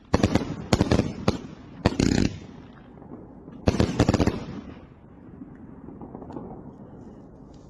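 Firecrackers going off: a run of sharp bangs through the first couple of seconds, another loud burst of bangs about four seconds in, then a fading crackling noise.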